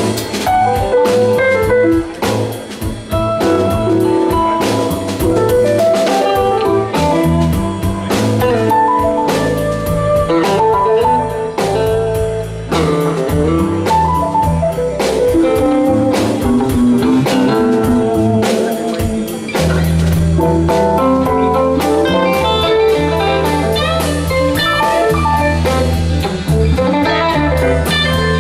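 Live rock band playing an instrumental passage: guitar lead lines over electric bass and drum kit, with steady cymbal hits.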